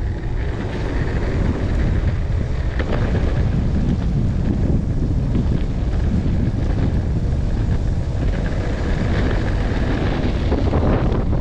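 Heavy wind buffeting a GoPro's microphone: a dense, steady low rumble with no letup, from riding an electric skateboard into strong wind.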